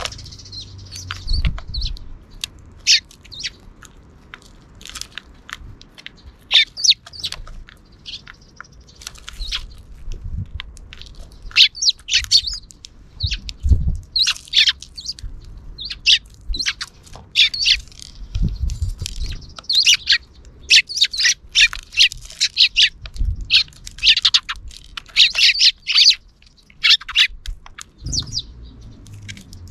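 Sparrows chirping, many short repeated chirps from several birds, busiest in the second half, with a few dull low thumps in between.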